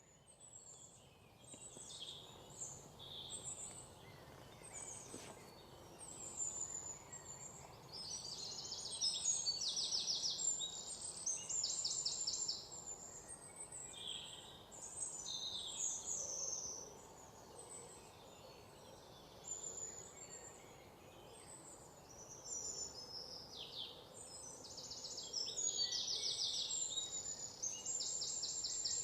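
Songbirds singing: many high chirps and rapid buzzy trills over a faint steady outdoor background, busiest about a third of the way in and again near the end.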